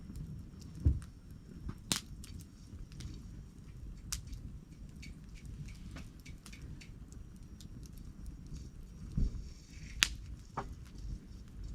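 Wood campfire crackling, with irregular sharp pops, the loudest about two seconds in and again near ten seconds in, over a steady low rumble.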